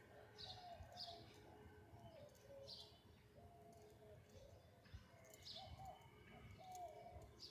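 Faint birdsong: several short, high chirps spaced a second or more apart, with softer lower calls between them.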